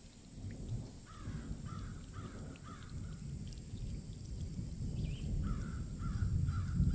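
A bird calling in two runs of about four calls each, roughly half a second apart, over a low rumble.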